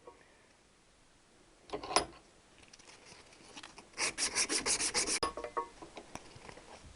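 Quick back-and-forth hand rubbing strokes on the metal end of a Triumph T120R kickstart lever, about eight a second for just over a second, dressing off a high spot. A single scrape comes about two seconds in, and a few light clicks follow the strokes.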